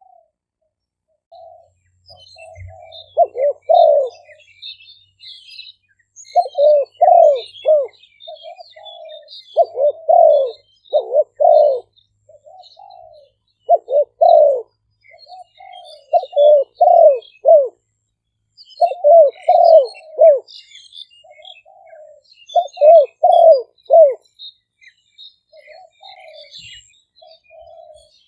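Spotted dove cooing: a phrase of three or four loud coos, each led in by softer notes, repeated about every three to four seconds. Small birds chirp faintly in the background.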